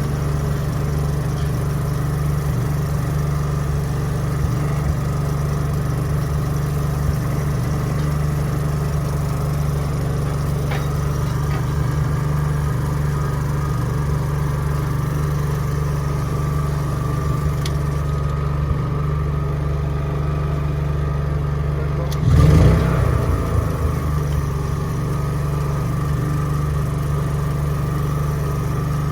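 Portable generator engine running steadily, with a constant higher whine over it and one brief louder clatter about three-quarters of the way through.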